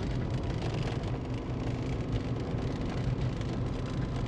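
Steady engine hum and road noise inside the cabin of a car towing a caravan down a steep, rutted hill, with faint small knocks and rattles throughout.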